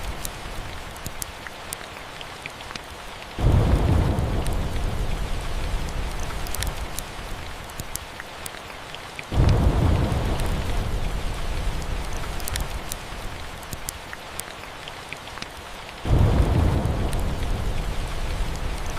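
Steady rain with three rolls of thunder, each starting suddenly as a deep rumble and fading away over several seconds, about six seconds apart. Sharp crackles of a wood fire tick through the rain.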